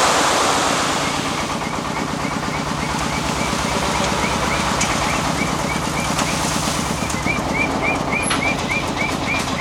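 Small engine running steadily. A burst of rushing noise comes at the start, and from about two seconds in a short high chirp repeats a few times a second.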